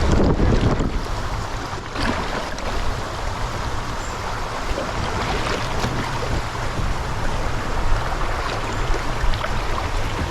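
Fast river current rushing and splashing around a canoe running a swift, with a few sharp splashes or knocks along the way.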